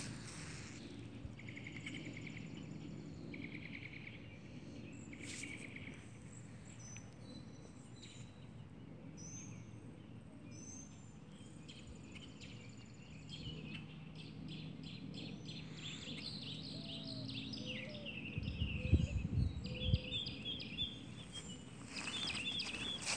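Outdoor ambience of wild birds chirping and singing, with a few short buzzy trills in the first few seconds and quick high chirps through the second half. A few low rumbles on the microphone about three-quarters of the way through.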